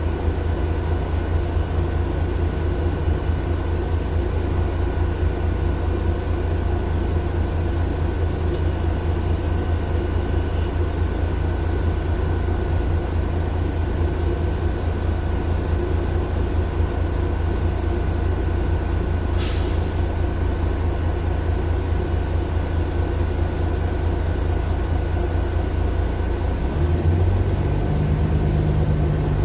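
Mercedes-Benz Citaro LE city bus's Daimler OM 457 hLA diesel engine running steadily with a low drone. Roughly two-thirds of the way through comes one short hiss, and near the end the engine note rises and gets a little louder.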